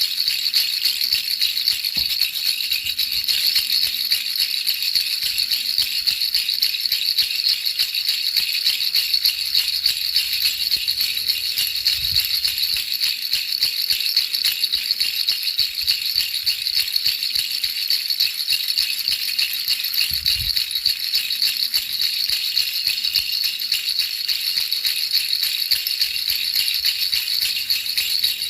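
Baby rattle shaken without a break: a steady, dense, high-pitched rattling used as soothing white noise.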